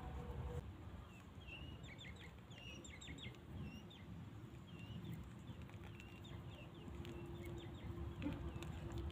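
Birds chirping: many short, high chirps repeated in quick succession from about a second and a half in, over a low steady rumble.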